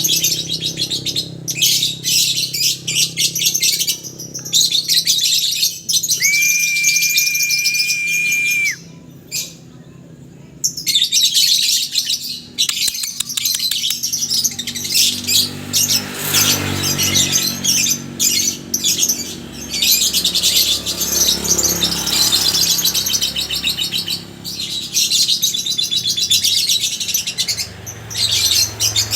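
A flock of lovebirds chattering with rapid, high-pitched chirps. A steady high tone holds for a couple of seconds about six seconds in. The chatter drops briefly a little later, then resumes as loud as before.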